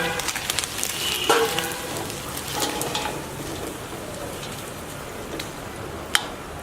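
Food frying in hot oil in a pan, sizzling and crackling most busily in the first few seconds, with a few short scrapes and a sharp click near the end.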